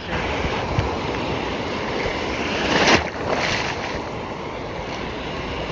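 Stormy sea surf: a steady roar of breaking waves, with one wave crashing louder about three seconds in. Wind buffets the microphone.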